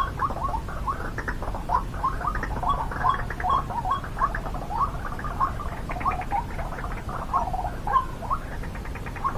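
White-breasted waterhen calling: a continuous, rapid string of short, repeated croaking notes, several a second.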